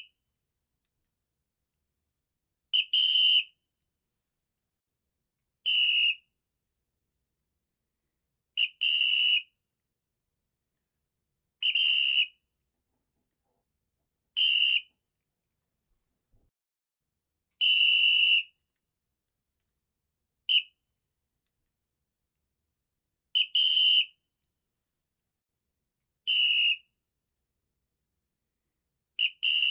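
High-pitched whistling squeaks on one steady pitch, played as short blasts about every three seconds, some as quick double squeaks, with silence between them.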